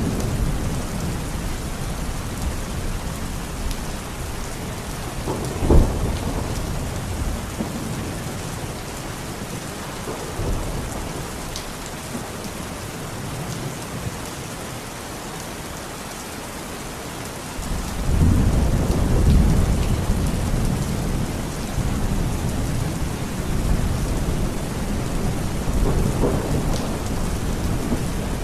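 Steady rain falling in a thunderstorm. A short, loud clap of thunder comes about six seconds in, and a long, low rumble of thunder swells up about two-thirds of the way through, then slowly fades back into the rain.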